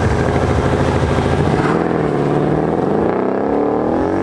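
Mercedes-AMG CLS63 S and BMW X5 launching side by side in a drag race, engines revving hard and accelerating. From about halfway through, the engine pitch rises and drops with the revs.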